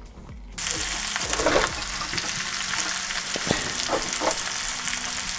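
Potatoes and onions frying in oil in an open pan, sizzling loudly, with a metal fork scraping and clicking against the pan as they are stirred; they are nearly done. The sizzle starts suddenly about half a second in.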